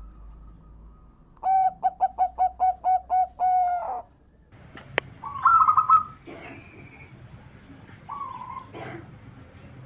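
Zebra dove (perkutut) singing. A run of quick cooing notes starts about a second and a half in and ends on a longer drawn-out note. After a sharp click, a shorter, higher trilled coo follows about five seconds in, and fainter short coos come near the end.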